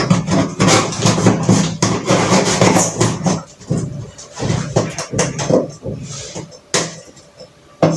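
Packaging and plastic parts of a new spin mop being handled while unboxing, a string of short clicks, knocks and rustles. The handling is busy for the first three and a half seconds, then sparser.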